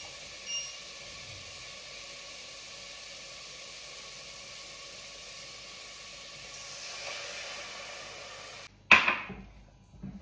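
Spiced chicken sizzling steadily in oil in a pressure cooker, the sizzle swelling a little near the end as water goes in. Then the background cuts off and a single sharp knock of cookware rings out.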